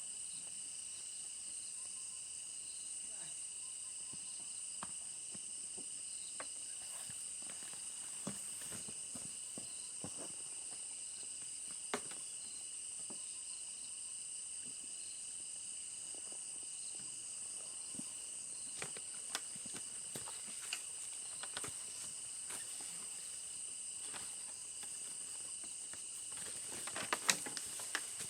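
Insect chorus in the forest: a steady, high-pitched, many-toned shrilling that does not let up. Scattered light clicks and knocks, with a small cluster near the end.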